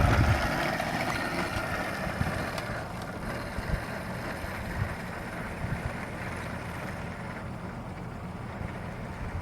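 Electric whine of 36-volt electric mini motorcycles, fading away over the first few seconds as they ride off, then wind on the microphone.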